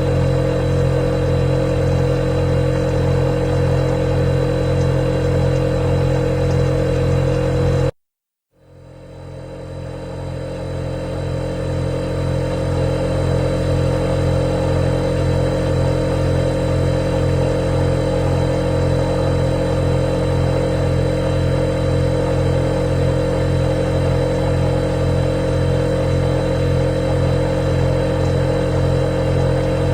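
Refrigerator humming steadily. About eight seconds in it cuts out for half a second, then fades back up to full level over a few seconds.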